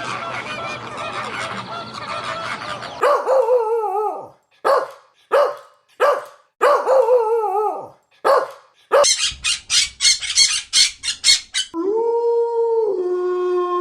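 A flock of geese honking together, then a dog howling: short wavering cries that fall in pitch, a quick run of sharp yaps, and one long held howl that drops a step in pitch near the end.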